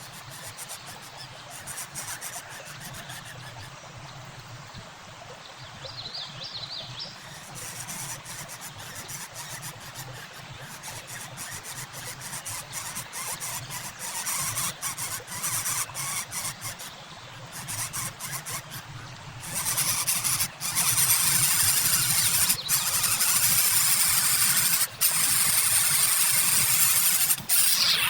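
Harsh squealing and hissing calls from birds. They are moderate at first, then grow loud and nearly continuous about two-thirds of the way through.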